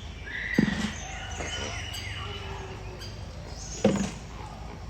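Birds chirping and calling, with thin high chirps throughout and two short, louder sounds, about half a second in and near the end.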